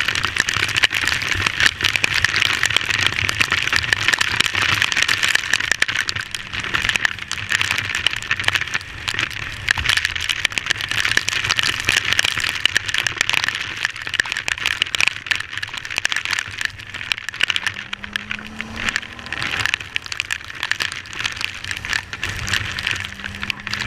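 Heavy rain pelting a GoPro camera on a riding Yamaha Fazer 250 motorcycle: a dense, steady crackle of drops hitting the camera, with wind and the motorcycle's low engine drone underneath.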